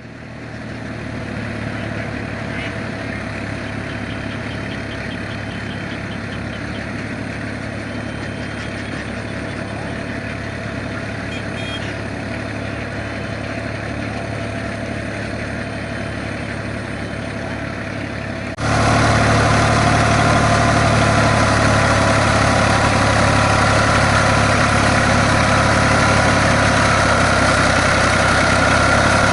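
Fiat DT 45-66 tractor's three-cylinder Iveco diesel engine running steadily; the sound becomes abruptly louder about two-thirds of the way through.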